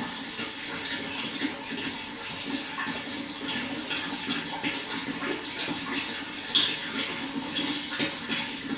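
Water flowing and splashing steadily, full of small gurgles and splashes, with one brief louder splash about six and a half seconds in.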